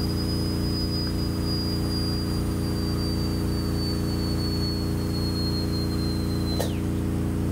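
Dental high-speed drill whining at a steady high pitch that sags slowly, then winds down about six and a half seconds in, over a steady low hum.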